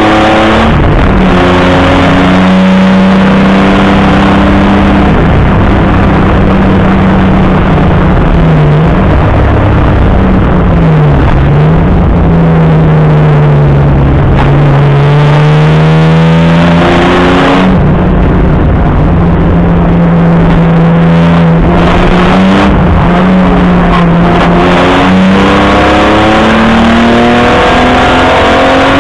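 Opel Commodore A race car's straight-six engine heard from inside the car, running hard on track. The revs dip and climb several times, falling lowest around the middle, then rising again and holding high.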